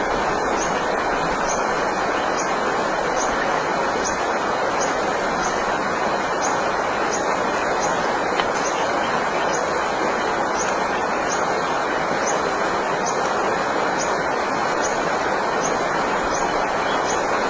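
Mountain stream water rushing steadily, with a short high chirp repeating a little more than once a second over it.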